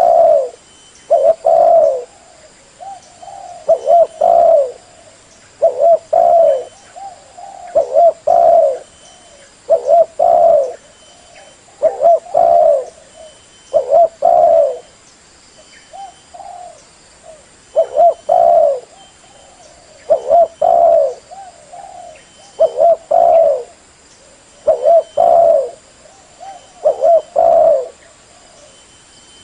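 Female spotted dove cooing: a short phrase of a few low notes repeated about every two seconds.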